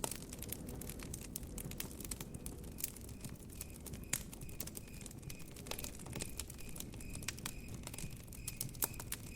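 Wood campfire crackling, with irregular sharp pops and snaps over a low steady hiss. From about two and a half seconds in, a cricket chirps faintly in an even, repeating rhythm.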